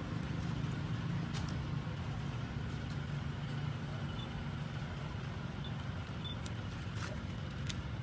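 Steady low engine-like rumble, like a motor vehicle running, with a few faint sharp clicks.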